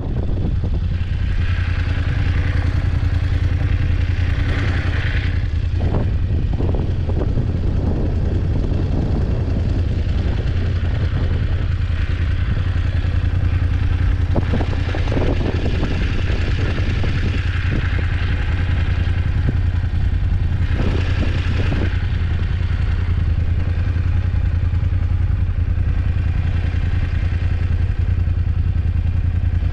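BMW F850GS motorcycle's parallel-twin engine running steadily under way, recorded on board, with a few short clattering knocks from the machine.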